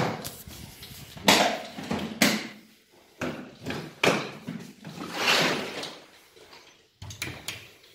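Cabinet doors and drawers of a wooden TV unit being opened and closed: a series of knocks and sliding sounds, about eight of them, some short and some longer.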